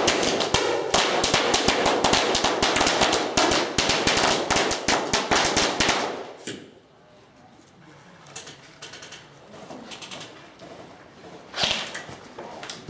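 Airsoft guns firing in rapid automatic bursts, many shots a second, for about six seconds before stopping; one more sharp snap near the end.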